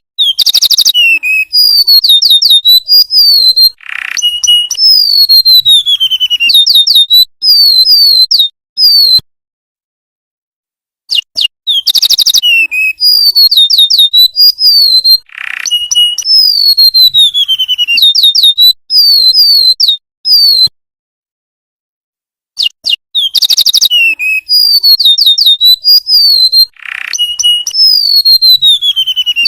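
Recorded song of a golden-bellied gerygone (remetuk laut): high, thin whistled notes and quick falling trills. The same song sequence plays three times, each separated by a pause of about two seconds.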